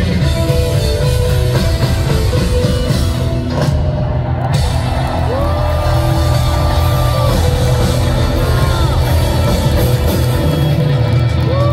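Rock band playing live: drums, bass and electric guitars, with long held high notes that slide up into pitch and drop off at their ends.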